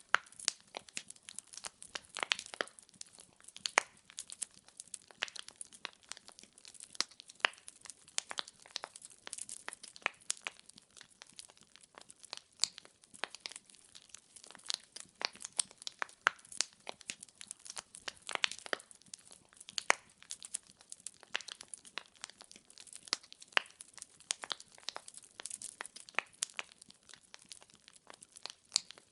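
Wood fire in a fireplace crackling: many sharp, irregular pops and snaps of burning logs over a faint hiss of flame.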